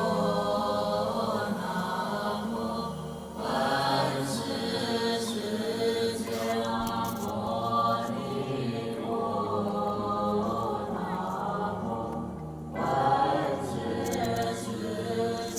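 A group of voices chanting Buddhist sutras in unison, in a steady, drawn-out chant with short breaks about three seconds in and again near the end.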